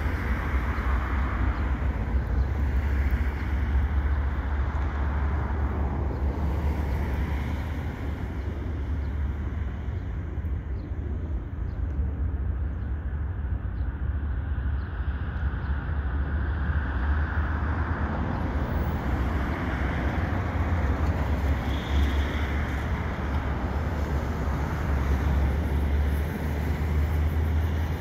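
Steady low rumble of a diesel freight train running by in the distance, with no sharp events.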